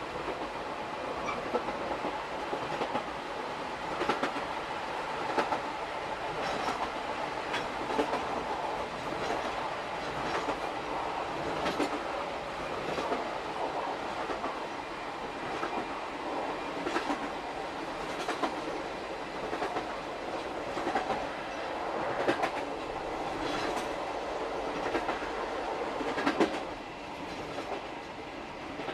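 Rail-joint clickety-clack of an old-type SuHaFu 42 passenger coach hauled by EF58 61, heard from the coach's end through an open gangway. Sharp clacks come about every second or so over a steady running rumble. The locomotive's motors are barely heard because the line runs downhill here.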